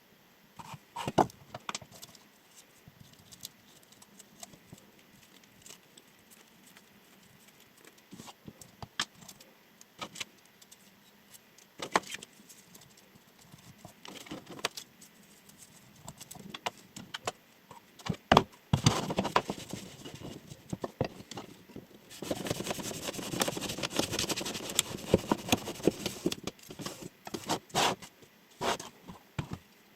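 Chef knife cutting and being handled: scattered sharp clicks and taps, then a steady crackling rustle for about four seconds in the second half.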